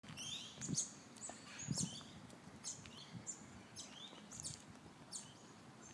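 Birds chirping: many short high calls, several sweeping downward, about two a second. Two low thuds come about a second in and near two seconds.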